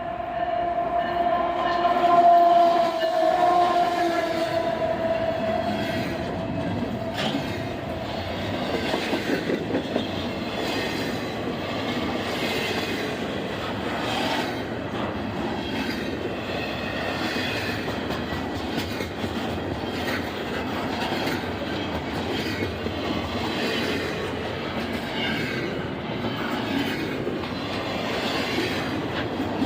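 A train horn sounds a chord of several tones, loudest about two seconds in and fading out by about five seconds. A train then rolls past, its wheels clicking over the rail joints in a steady run.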